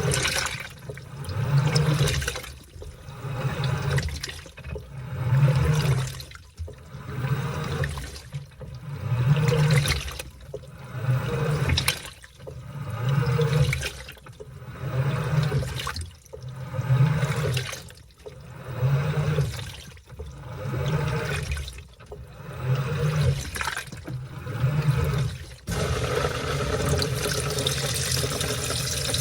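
Washing machine in its wash cycle: the clothes churn back and forth in the water in regular surges about every one and a half to two seconds, each with a low motor hum. About 26 seconds in, the churning stops suddenly and a steady rush of water follows.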